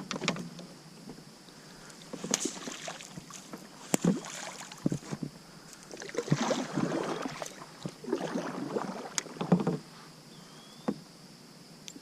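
Kayak paddle strokes in the water: four splashy strokes about two seconds apart, with a few sharp knocks in between.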